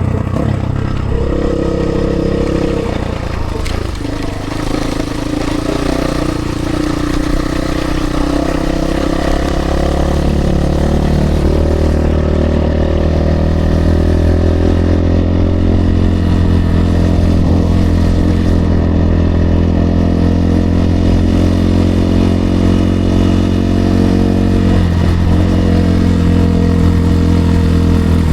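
RVM CZ 250 T Pro enduro motorcycle engine running while being ridden. Its note shifts up and down in the first few seconds, then settles into a steady drone.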